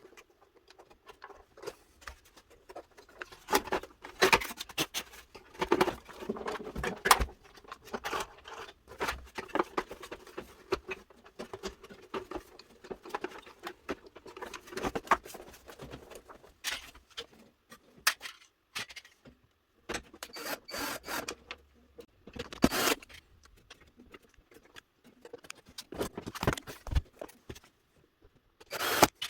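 Plastic housing parts of a Miele S711 canister vacuum cleaner being handled and fitted back together by hand: a long run of irregular clicks, knocks and scrapes.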